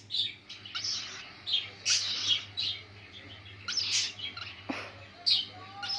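Pet parrot chirping: a string of short, high chirps and tweets at irregular intervals, ending in a brief held whistle.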